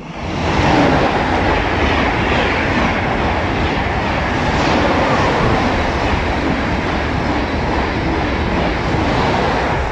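TGV high-speed train running through a station close by at speed: a loud, steady rush of wheel and air noise that swells up within the first second and then holds.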